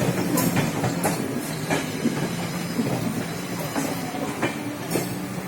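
Passenger train running on the track, with a steady running hum and irregular sharp clicks of the wheels passing over rail joints.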